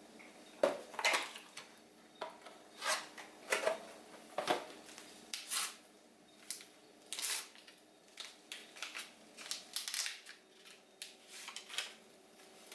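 Irregular clatter of small objects being handled: about fifteen short knocks and clinks at uneven intervals, some ringing briefly.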